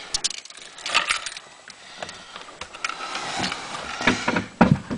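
Handling noises inside a small car's cabin: rustling, scattered clicks and a few knocks, with heavier thumps near the end. The engine is not running or cranking.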